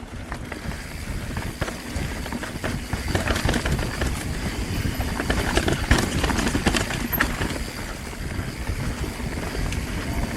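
Mountain bike descending rough, rooty singletrack at speed: tyres running over dirt, roots and rocks with a steady rattle of knocks from the bike, over a low rush of wind on the microphone, getting louder as the speed builds.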